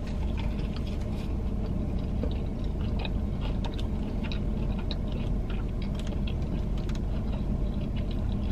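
Close-up chewing of a bite of fried chicken sandwich with pickles: many small wet, crunchy clicks and crackles of the mouth at work. Under it, a steady low hum of the car cabin.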